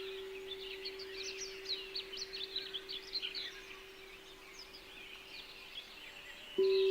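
Small songbirds chirping in quick, dense runs of short notes over a steady, pure, singing-bowl-like meditation tone (the throat-centre frequency). The tone slowly fades, then comes back suddenly louder near the end.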